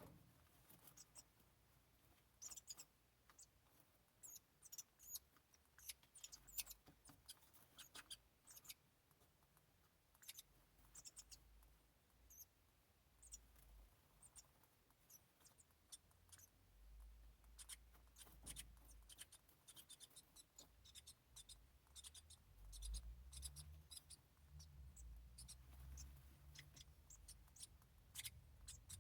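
Faint, high, short squeaks and scratchy rustles, scattered irregularly: house wren nestlings begging and stirring in the nest. A low rumble joins in over the second half.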